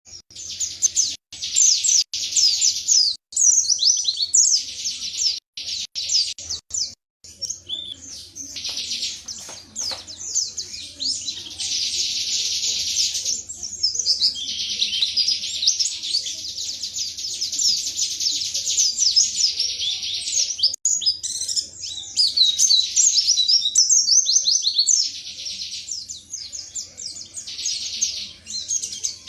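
Pleci (white-eye) singing a long, rapid, high twittering song with hardly a pause. It cuts out briefly several times in the first seven seconds.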